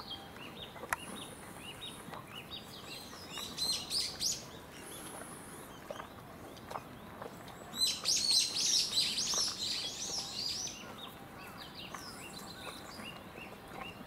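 Small birds chirping and singing, with quick repeated chirps and the loudest bursts around four seconds in and from about eight to eleven seconds in. A few faint clicks come in between.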